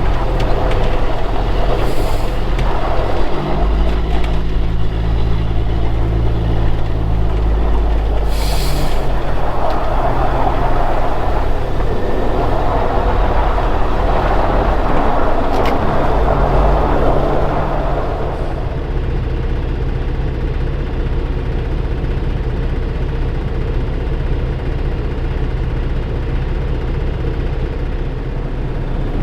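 Semi truck under way: diesel engine running, its note stepping up and down a few times, over a steady rush of road noise. Two short hisses come in the first ten seconds, and the rush eases off about two-thirds of the way through.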